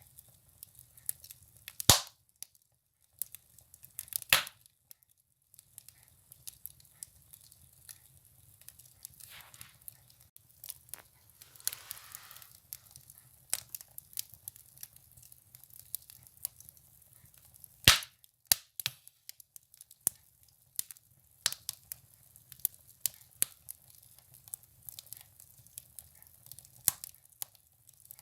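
Firewood burning in a wood stove, crackling and popping at irregular intervals, with two sharp loud pops about 2 and 18 seconds in and a short hiss about 12 seconds in.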